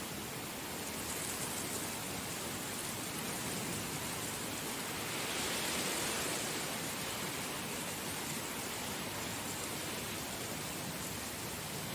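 Heavy rain falling steadily, an even hiss that swells slightly in loudness about halfway through.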